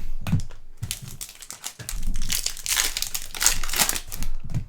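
Foil trading-card pack wrappers crinkling as packs are handled and torn open, in several loud bursts.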